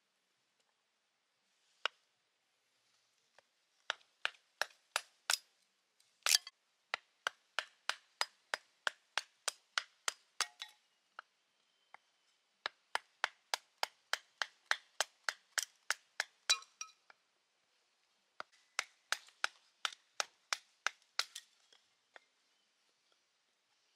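Sharp wooden knocks in quick runs of about three a second, three runs in all: kindling being chopped or split for a wood-burning stove.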